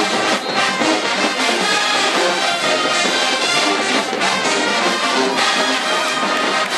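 Marching band playing, brass section led by trombones and trumpets over a steady drumline beat.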